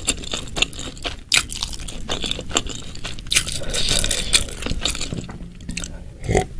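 Close-miked chewing of food from a spicy meatball and mushroom dish, with many small wet mouth clicks and crunches. Near the end a glass of water is raised to the mouth for a sip.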